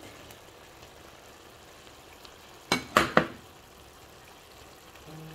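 Beef kidneys sizzling softly in oil and sauce in a pot on low heat, with three quick knocks about three seconds in as chopped onion and tomato are tipped in off a plate.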